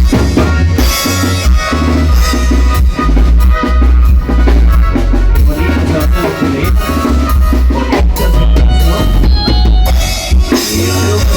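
Band music with a drum kit keeping a steady beat, the bass drum and snare to the fore, over bass and melody instruments.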